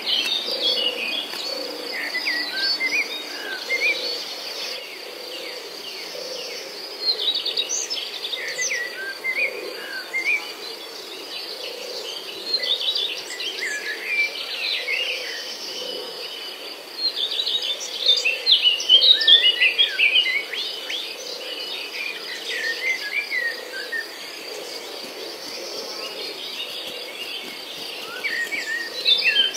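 Small birds chirping in repeated bursts of quick, high peeps, over a steady high-pitched buzz.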